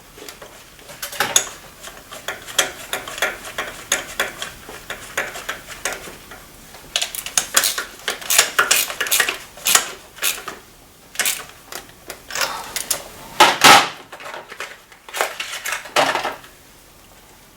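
Metal hand tools clinking and clicking in irregular clusters while new spark plugs are installed, with the loudest clatter about three-quarters of the way through.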